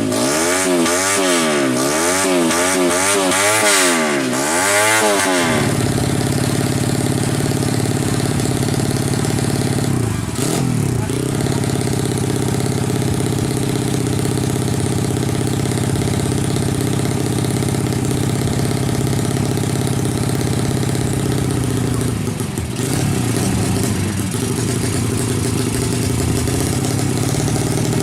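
Motorcycle engine revved in quick repeated throttle blips, about seven rises and falls in pitch, then settling into a steady idle about five seconds in, with a brief dip in engine speed twice later on.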